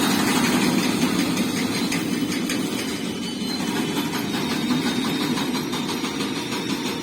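A large engine running steadily, with a low hum under a broad noise, slowly growing fainter.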